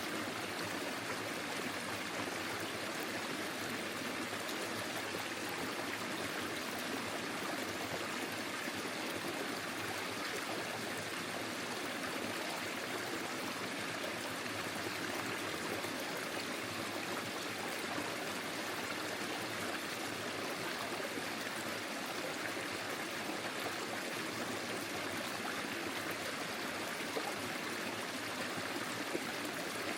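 Small forest stream flowing steadily over stones: an even, unbroken rush of water with a light gurgle.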